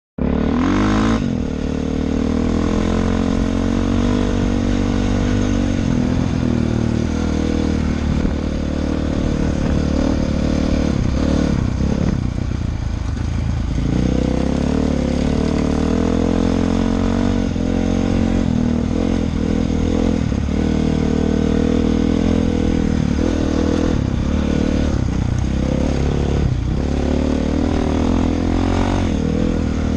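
Honda CRF450R dirt bike's single-cylinder four-stroke engine running as it is ridden, its pitch rising and falling with the throttle and dropping off for a couple of seconds about halfway through before picking up again.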